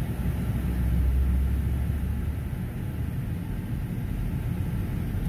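Low, steady rumble of a Loram rail maintenance train, heard from inside a car, heaviest in the first couple of seconds.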